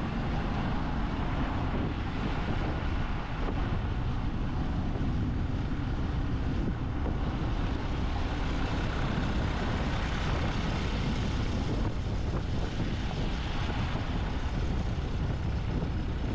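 Motorbike riding along a mountain road: steady engine and road noise with no change in pace.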